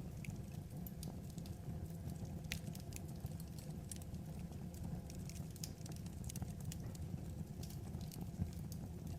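Wood fire burning with a steady low rumble and irregular sharp crackles and pops of the burning logs.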